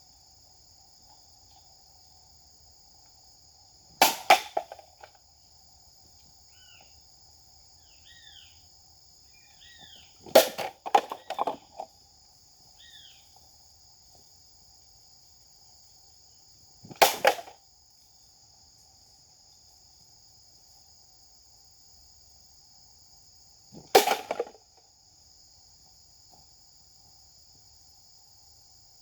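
A Japanese sword cutting a target with four sharp strikes, spaced several seconds apart, each followed by a short clatter; the second comes in a quick cluster of hits. A steady high insect drone runs underneath, with a few faint bird chirps between the first and second strikes.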